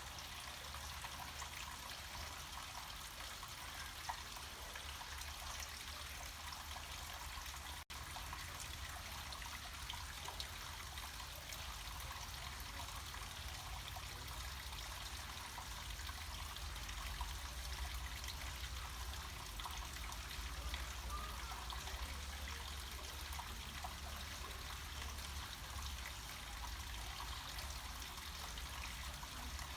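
Small mountain stream or cascade of water flowing downhill, a steady trickling and splashing with a low rumble underneath. The audio drops out for a split second about eight seconds in.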